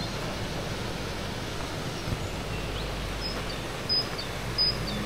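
Outdoor ambience: a steady background hiss, with a small bird giving three short, high chirps in the second half, roughly two-thirds of a second apart.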